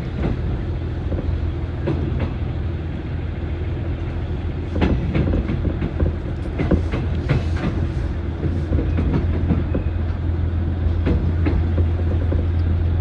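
Old-type passenger coach running on the rails, heard from aboard: a steady low rumble with irregular clicks and knocks from the wheels over rail joints, coming thicker about halfway through.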